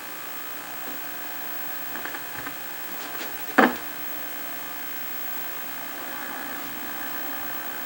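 Steady electrical hiss and buzz from a running tube TV set, with a few faint ticks and one short, sharp click about three and a half seconds in as the chassis is worked on.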